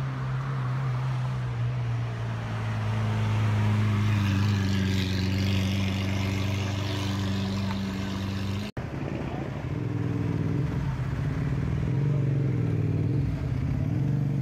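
Lamborghini Aventador's 6.5-litre V12 engine running at low revs as the car moves slowly, a steady low drone that grows louder a couple of seconds in. After a sudden cut about two-thirds through, another Aventador's V12 revs as it drives off, its pitch rising and falling.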